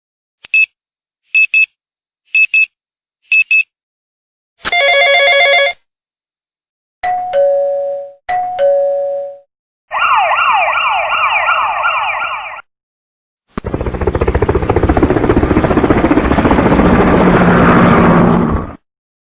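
A run of separate editing sound effects with short silences between them: four short high beeps about a second apart, a one-second buzzer tone, a two-note falling doorbell-like chime played twice, a rapidly repeating rising siren-like whoop, then a dense noisy sound lasting about five seconds.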